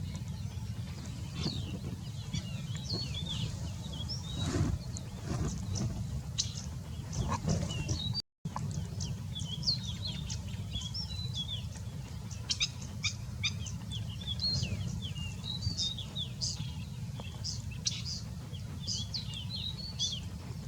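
Small birds chirping busily, with many short, high, quick calls and slides tumbling over one another, over a steady low rumble. The sound cuts out completely for a moment about eight seconds in.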